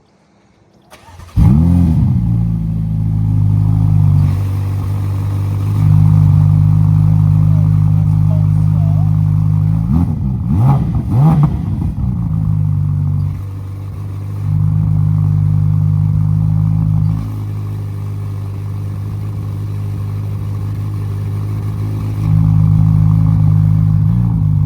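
Ferrari F8 Spider's twin-turbo V8 on its stock exhaust, cold-starting: it catches about a second in with a flare of revs, then runs at a loud fast idle. The idle steps up and down in level several times, and the revs rise and fall a few times around the middle.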